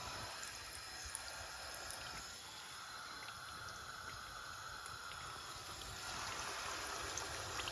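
Faint, steady hiss of a pan of frying oil heating on the stove, with a few light ticks.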